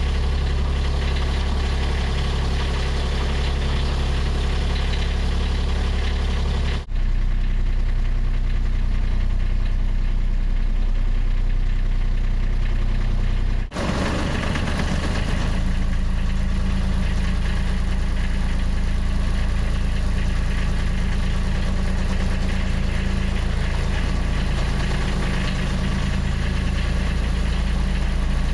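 Narrowboat engine running steadily at low revs, a continuous low throb. The sound breaks off briefly twice, about 7 and 14 seconds in, and the engine note shifts slightly after each break.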